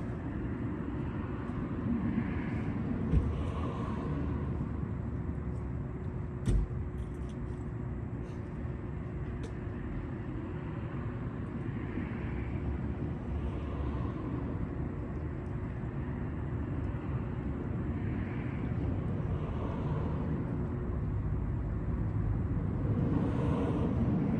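Steady low rumble of outdoor road traffic, with two brief knocks a few seconds in.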